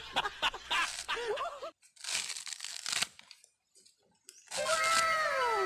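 Coconut husk fibres being torn off with the teeth, with crackling and crunching and one dense rip about two seconds in, then a short pause. Near the end a string of overlapping falling tones begins.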